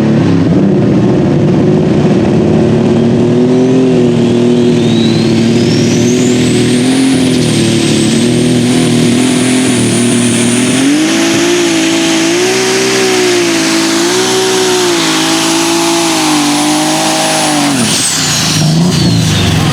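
Case International super stock pulling tractor's turbocharged engine at full power under load, with a high turbo whistle that climbs over a few seconds and then holds. About halfway through, the engine pitch starts to waver up and down; about two seconds before the end the engine drops off sharply and the turbo whistle falls away as the power comes off.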